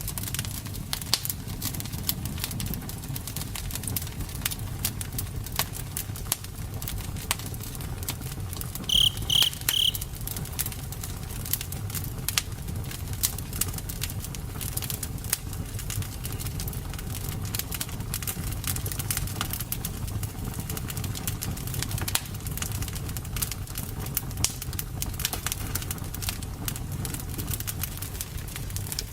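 Campfire burning with a steady low rumble and frequent sharp crackles and pops. About nine seconds in come three short, high chirps in quick succession.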